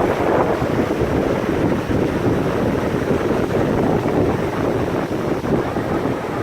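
Heavy storm surf rushing and breaking on the beach, with strong wind buffeting the microphone.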